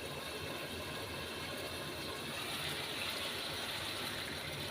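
A pot of chicken afritada in tomato sauce simmering on the stove, a steady hiss and bubble after water has been added. It grows a little fuller about halfway through.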